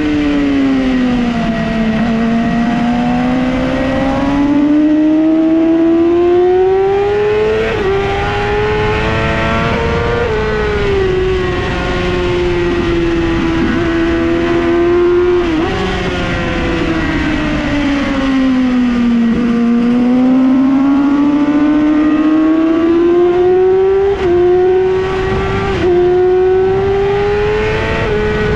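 Yamaha R6 inline-four sport-bike engine at full track pace, with a steady noisy rush beneath it. The revs wind down twice, near the start and again about two-thirds of the way in, then climb back through the gears. Quick upshifts show as short dips in pitch.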